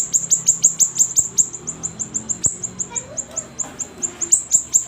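Siri-siri bird singing vigorously: a fast, unbroken run of sharp, high chirps, each falling in pitch, about six or seven a second.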